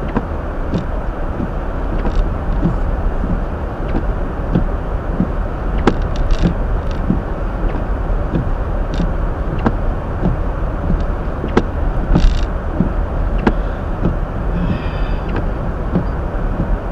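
A Hyundai Elantra driving on a snow-covered road, heard from inside the cabin: a steady low rumble of tyres and engine, with scattered light clicks and knocks.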